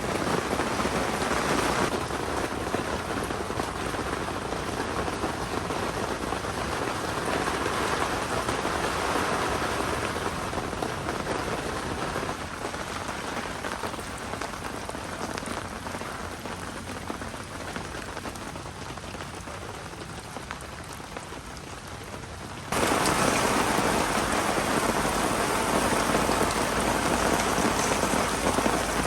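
Heavy rain pouring steadily, easing slightly, then abruptly louder about three-quarters of the way through.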